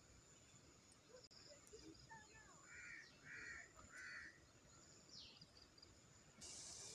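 Faint bird calls: three short harsh caws about half a second apart, with a few fainter chirps. A steady hiss comes in near the end.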